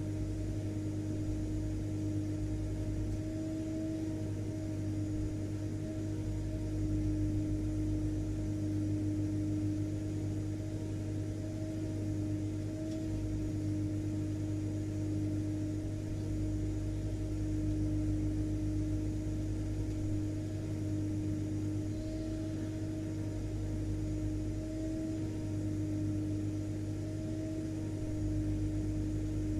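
Vacuum cleaner motor running steadily: a continuous low hum with a steady mid-pitched whine over a faint hiss.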